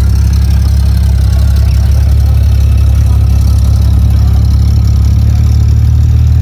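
Car engine idling close by: a loud, steady, deep rumble that holds the same pitch throughout, with no revving.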